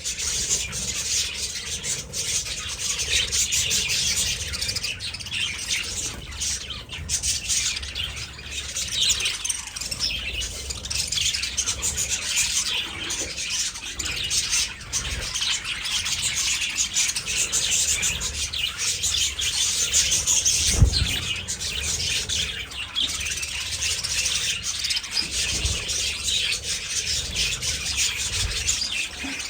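A flock of budgerigars chattering and chirping nonstop. A single low thump sounds about two-thirds of the way through.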